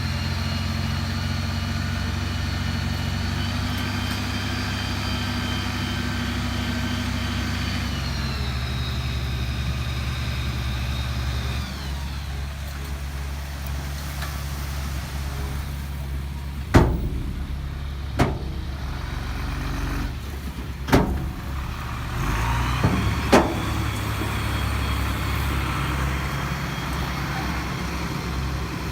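Heavy diesel earthmoving machine working under load, with a steady engine note and a high whine that eases off partway through. Four sharp metallic clanks follow, then the engine picks up again.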